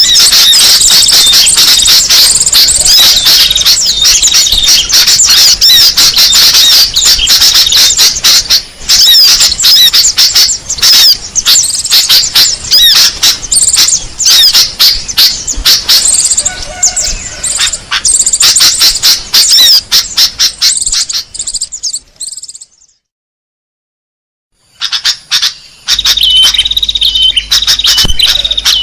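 A loud, dense mass of rapid high-pitched small-bird chirps and trills, a recorded bird-luring call. It breaks off into silence for about two seconds just over twenty seconds in, then starts again with a quick repeating high note.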